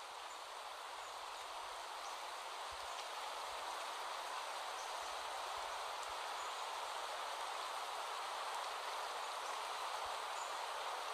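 Steady rain falling: an even hiss with no distinct drops, slowly growing louder as it fades in.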